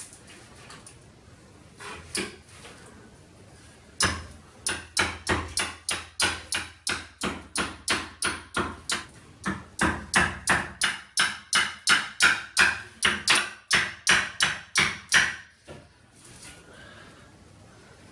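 A hammer striking repeatedly and steadily, about three blows a second for some eleven seconds, knocking loose a shower wall channel that has been glued to the tiled wall. A single knock comes a few seconds before the run of blows.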